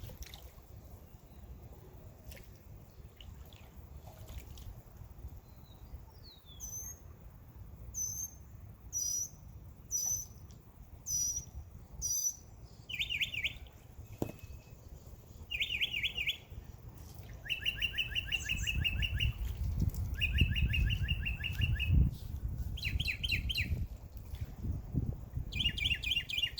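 Backyard birds chirping: a run of clear high call notes about one a second, then quick trilled phrases repeated every couple of seconds. A low rumble runs underneath, louder in the second half.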